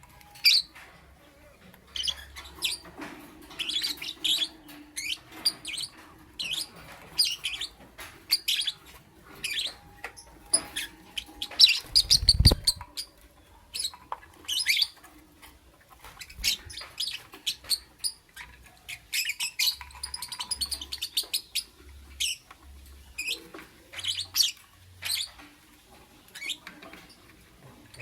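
Lovebird chirping in quick, short, high calls, with many chirps coming in clusters throughout. A single loud low thump sounds about halfway through.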